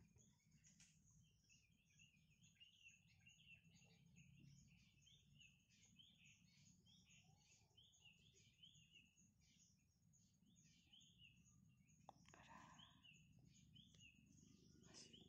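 Near silence with faint bird chirps repeated quickly in runs, over a low ambient hum; a soft click about twelve seconds in.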